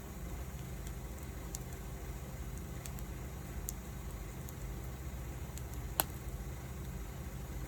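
Wood fire burning with a steady low rumble and scattered light crackles, and one sharp pop about six seconds in.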